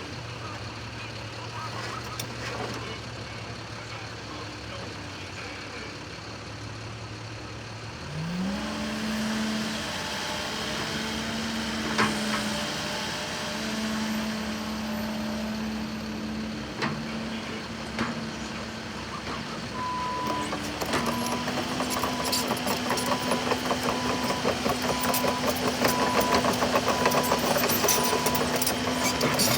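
Cat 308CR mini excavator's diesel engine idling low, then revving up a quarter of the way in to a steady higher speed, with a few sharp clicks. Later a beeping alarm starts, about one and a half beeps a second, and the engine works a little harder and louder.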